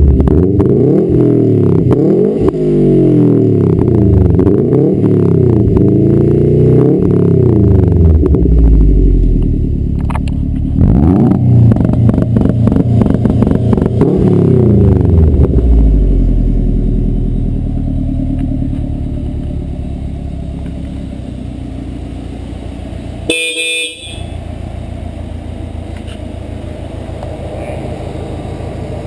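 Exhaust of a 2010 Subaru WRX's turbocharged flat-four through a Borla XR-1 muffler, the engine blipped and revved up and down repeatedly, then settling back to a steady idle for the second half. A brief tone-like sound cuts in for about half a second near the end.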